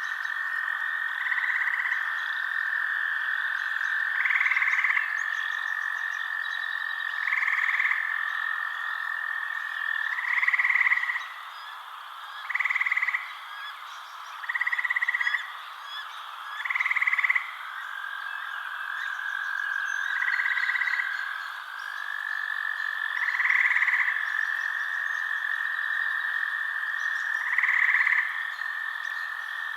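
Frogs calling at night: short calls repeating about every two to three seconds over a continuous high-pitched trill that dips slightly in pitch about two-thirds of the way through.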